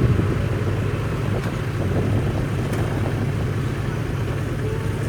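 Shantui crawler bulldozer's diesel engine running with a steady low rumble.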